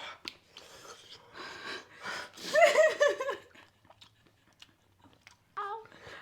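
A woman breathing hard through the mouth from the burn of extremely spicy ramen, with a loud, high-pitched, wavering wordless cry a couple of seconds in and a short one near the end.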